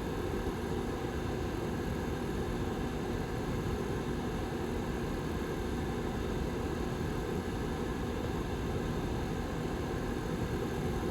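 Rear fan of a Lasko 755320 tower heater running steadily: an even, low rush of air with a faint steady hum in it.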